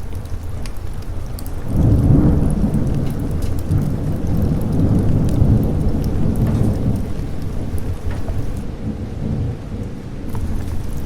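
A rolling thunder rumble over steady rain: it swells about two seconds in and slowly dies away toward the end. Scattered sharp crackles from a fireplace run through it.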